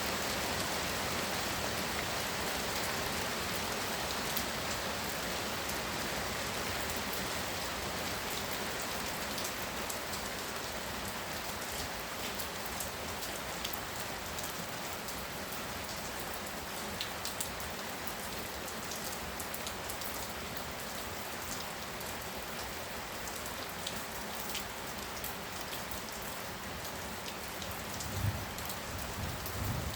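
Heavy rain pouring steadily, easing a little over time, with individual drops tapping sharply close by. Near the end come two low thuds.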